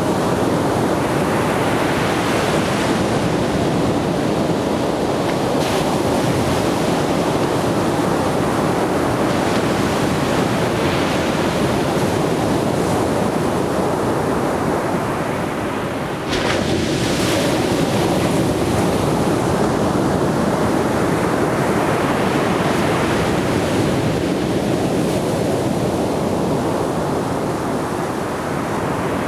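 Atlantic surf breaking and washing up on a beach in a continuous wash of waves. One wave breaks more sharply a little past halfway.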